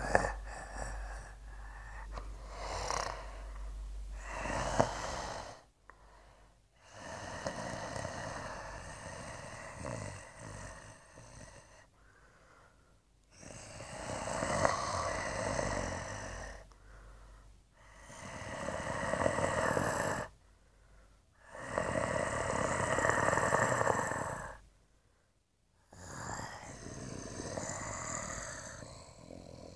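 Rhythmic, snore-like noisy breathing in drawn-out swells of two to four seconds, each separated by a short silent gap.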